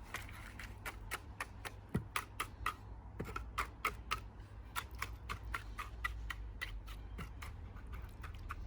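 A tool working cement into a bird bath makes a run of quick light clicks, about three or four a second and unevenly spaced.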